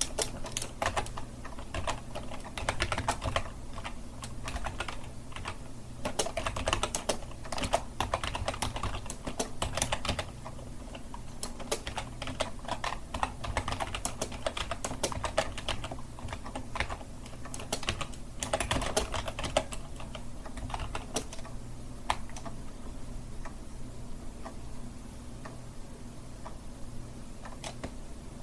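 Typing on a computer keyboard: quick runs of key clicks for about twenty seconds, thinning to scattered keystrokes near the end. A faint steady low hum sits underneath.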